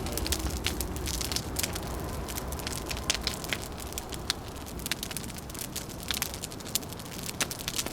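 Wood fire crackling, with many sharp irregular pops over a low steady rush.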